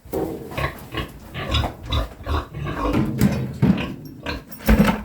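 Sow grunting over and over in short, irregular grunts, with a louder one near the end.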